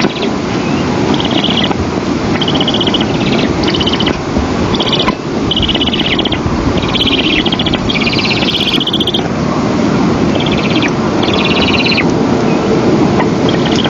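Outdoor ambience: a steady low rush of noise with a series of short, high, buzzy trills, roughly one or two a second.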